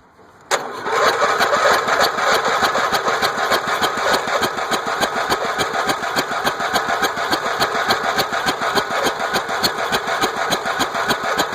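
Electric starter cranking a flood-damaged garden tractor's engine with a rapid, even pulsing, starting about half a second in; the engine does not catch.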